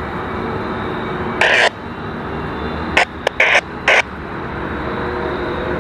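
A train rolling past steadily, with a few short harsh sounds over it: one about a second and a half in, then a quick cluster of four between three and four seconds in.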